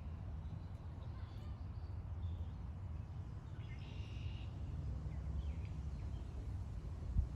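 Outdoor ambience: a steady low rumble with a few faint bird calls, the clearest about four seconds in.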